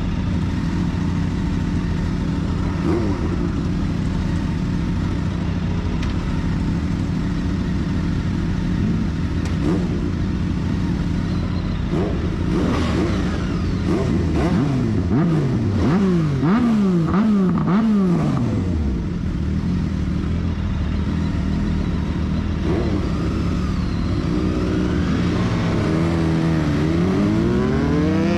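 Motorcycle engine idling steadily, then revved in a series of quick throttle blips about halfway through, the pitch falling back after each. It is revved up again near the end.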